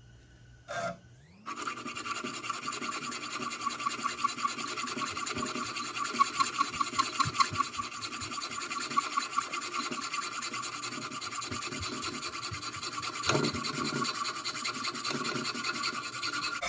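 A steel bolt clamped in a vise being cut through. There is a steady, continuous cutting sound with a whining tone that starts with a short rise in pitch about a second and a half in.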